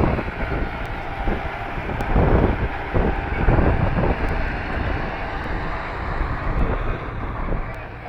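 Massey Ferguson tractor engine running steadily, rising and easing in level every second or so, with wind buffeting the microphone.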